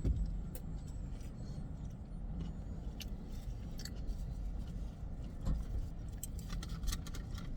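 Steady low rumble inside a car, with scattered light clicks and rattles from small things being handled.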